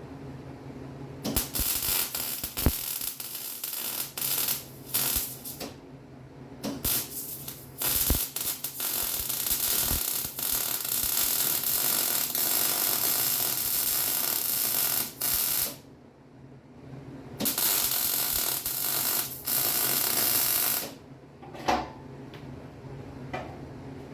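Electric arc welding on a steel Jeep frame cross member: a steady crackling sizzle in three long beads, stopping briefly about 6 s in and again for a second or two near 16 s, over a low steady hum.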